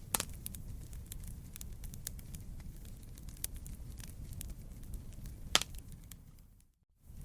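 Wood campfire crackling: a steady low rumble with scattered sharp pops and snaps, the loudest pop about five and a half seconds in. Near the end the sound briefly drops out, then starts again.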